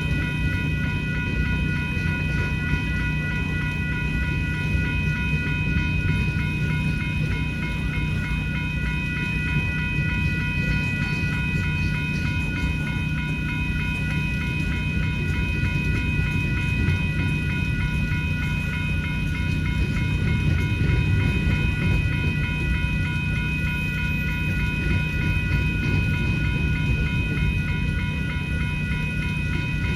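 Freight train cars rolling through a grade crossing with a low, steady rumble, while the crossing signal bells ring continuously over it. A generator hums steadily underneath.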